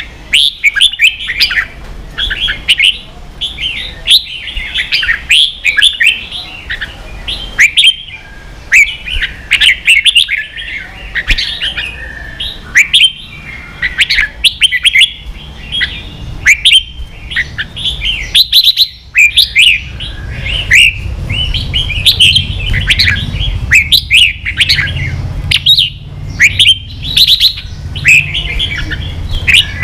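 Red-whiskered bulbuls singing in quick, chattering runs of chirping notes, with sharp clicks scattered among them. A low hum comes up underneath about twenty seconds in.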